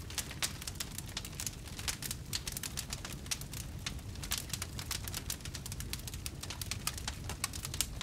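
Wood fire burning in a fireplace: a steady run of sharp crackles and pops, several a second, over a low steady rumble of the flames.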